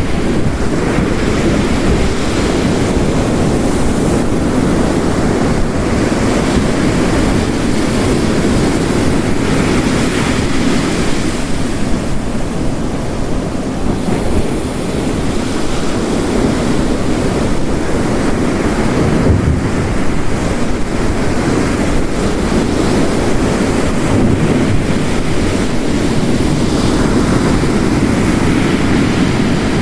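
Ocean waves crashing and washing on a shore, mixed with heavy rain, a steady rushing noise that swells and eases slowly.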